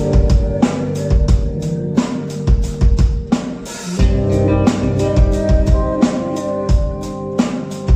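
Live band playing the instrumental introduction of a rock song: a drum kit beats out a steady rhythm of kick and snare under sustained pitched chords, with no singing yet.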